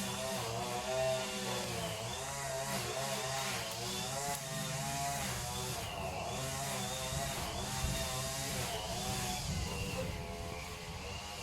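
A small petrol engine running, its pitch rising and falling unevenly as it revs up and down.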